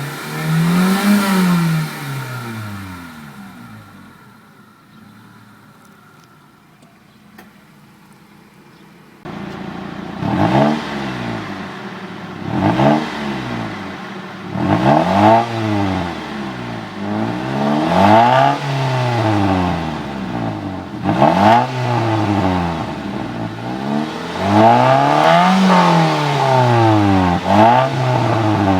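1999 Mitsubishi Lancer GLXi's 1.6-litre single-overhead-cam 16-valve four-cylinder engine being revved while stationary. It gives one rev that rises and falls, settles back to a quieter idle, then gives a run of about seven more quick revs, each rising and falling back.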